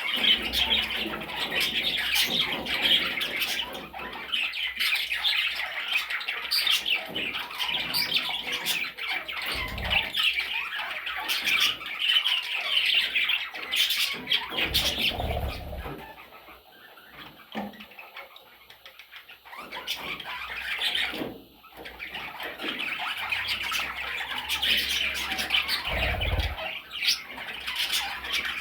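Budgerigar chattering and squawking: a dense run of scratchy chirps and clicks, with a quieter lull of a few seconds past the middle.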